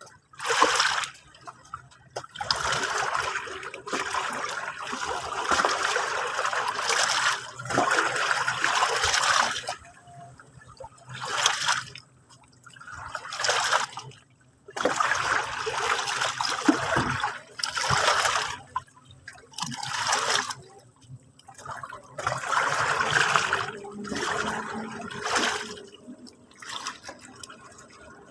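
Sea water washing over a shore and running back, in irregular surges of rushing water with short lulls between them.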